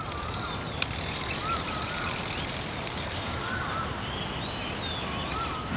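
A bird calling over and over, a short wavering whistle about every second and a half, over steady outdoor background noise, with a single sharp click about a second in.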